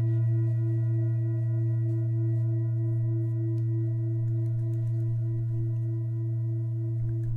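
Singing bowl ringing after a single strike, a loud low hum with higher overtones, one of them wavering in a slow pulse, slowly fading. Faint light ticks join near the end.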